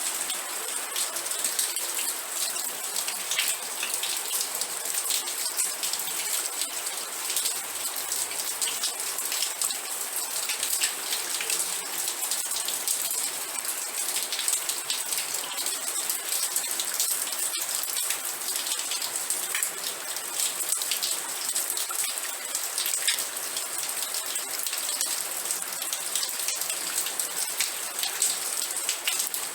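Steady rain falling, a dense even hiss full of fine close drop ticks on a hard surface.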